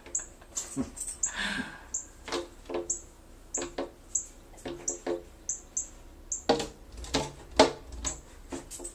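Female northern cardinal repeating short, high chip notes at an uneven pace, with about a dozen sharp taps and knocks scattered among them.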